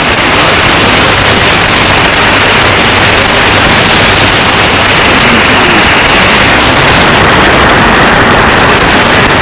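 Shortwave receiver hiss and static from an SDRplay RSP1 software-defined radio with no clear station audible, steady and loud. About two-thirds of the way through the hiss turns duller as the receive bandwidth is narrowed.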